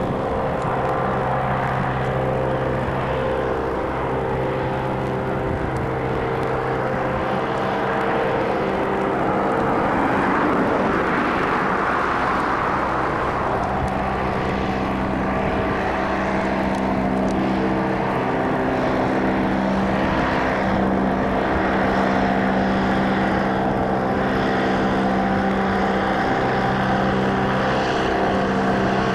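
AT-10 airship's propeller engines droning steadily as it flies past. A rushing swell comes about ten seconds in, and the engine tone shifts soon after as it passes.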